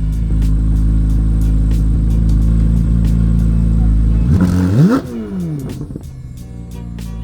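2024 Corvette C8 Z06's 5.5-litre flat-plane-crank V8 on its factory exhaust, running steadily at cruise, then revving up sharply about four seconds in and falling away as the throttle is lifted.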